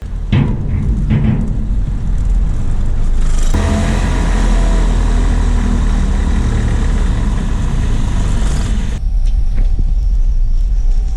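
Loud, steady low vehicle rumble that changes suddenly about three and a half seconds in and again near nine seconds.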